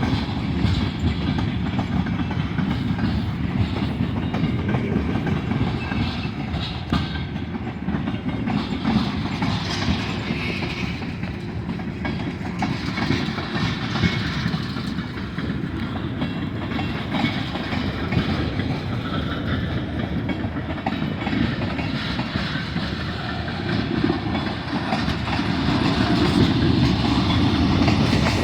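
Freight cars of a long mixed manifest train rolling past: a steady rumble of steel wheels on rail with frequent clicks, swelling slightly near the end.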